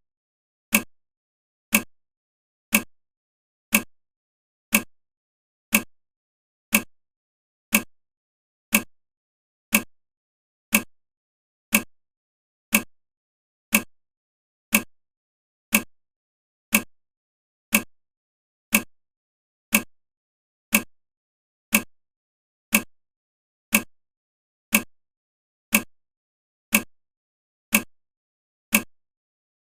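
A sharp tick repeating evenly once a second, each one dying away quickly, with silence between.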